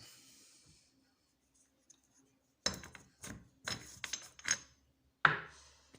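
Small metal parts being handled on a workbench: a quick irregular run of clattering clinks, then one sharp clink near the end that rings briefly.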